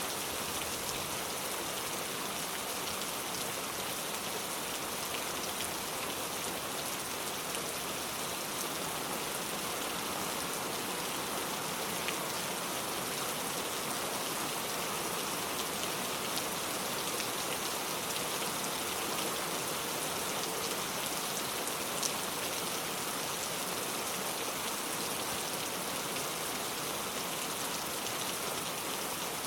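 Steady heavy rain falling on surfaces, an even hiss with a few louder single drop ticks now and then.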